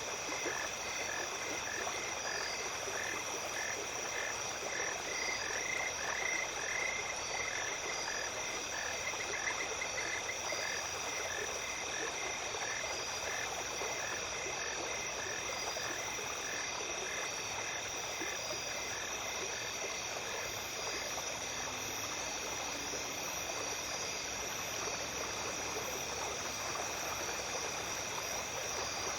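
Night stream ambience: a small creek runs steadily while insects trill continuously on several steady high pitches. A frog calls in a regular series of short notes, about two a second, that fades out about halfway through.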